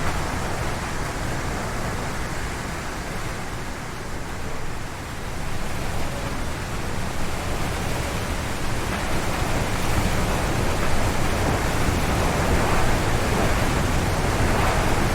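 Strong gusty wind rushing through forest trees. It eases slightly about four seconds in, then builds louder from about halfway.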